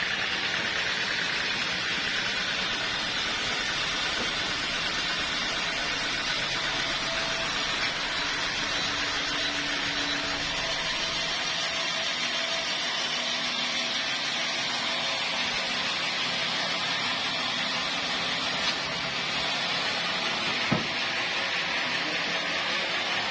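Steady machinery noise running evenly throughout, with a single sharp click about twenty seconds in.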